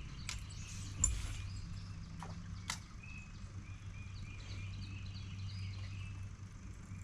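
Birds chirping, short repeated calls from about three seconds in, over a steady low hum, with a few sharp clicks in the first three seconds.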